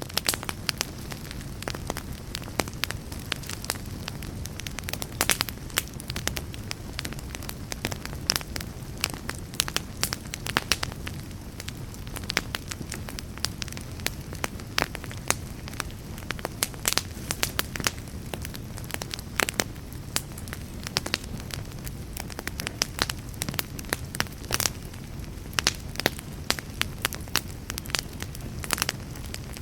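Burning fire crackling: frequent sharp, irregular pops and snaps over a steady low rumble of the flames.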